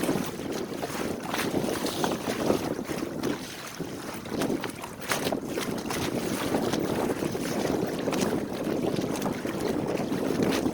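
Water rushing and splashing along the hull of a small sailboat under way, with wind buffeting the microphone.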